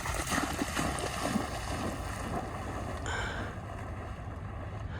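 Outdoor ambience: wind on the microphone over a steady low rumble. A brief high-pitched sound comes about three seconds in.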